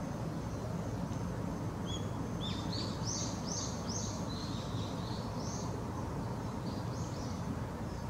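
A bird calling a run of about a dozen high notes, each arching up and sliding down, starting about two seconds in and stopping near the end, over a steady low rumble.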